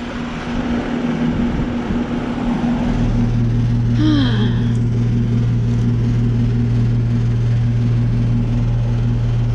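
Snyder General heat pump outdoor unit running, its condenser fan whirring over a steady hum. About three seconds in, a much stronger low hum from its reciprocating compressor sets in and holds steady.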